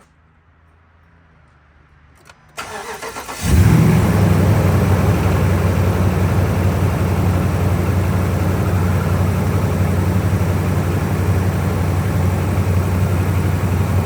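A 2011 Dodge truck's V8 engine is cranked by the starter for about a second, catches, and settles into a steady idle. The engine has a misfire on cylinder 7 that set the check-engine light.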